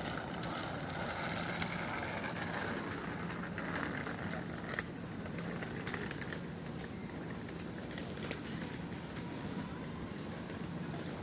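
City park ambience: a steady wash of distant traffic noise, with scattered brief sharp sounds over it.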